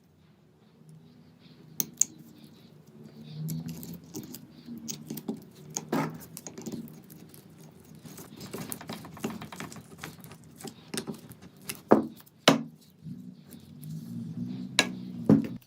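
Small metal parts being handled in the workshop: scattered clicks, light rattles and knocks, with a few sharper knocks about two seconds in and again near the end.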